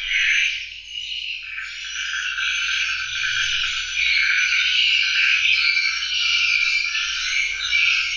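A dense, continuous chorus of high-pitched animal calls, overlapping without a break.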